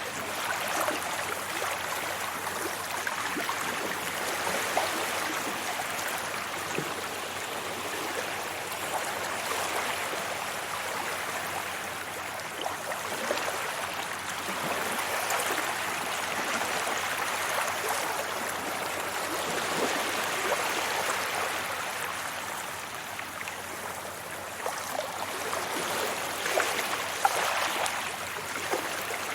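Sea waves washing onto a beach: a continuous rush of surf that swells and eases every several seconds.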